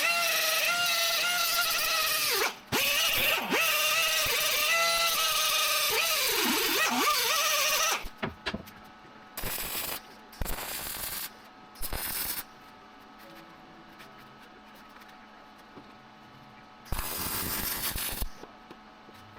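A power tool's motor running with a high whine and a hiss for about eight seconds, its pitch dipping several times as if under load. Several shorter bursts of noise follow, the last and longest near the end.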